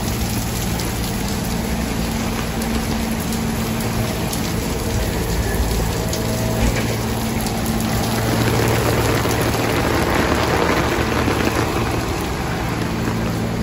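Heavy typhoon rain pouring steadily, with a steady low hum underneath; the rain swells louder about two-thirds of the way through.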